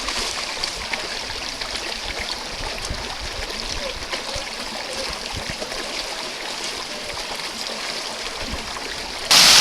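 Creek water running steadily over rocks. Near the end a much louder rush of water, like a waterfall, cuts in abruptly.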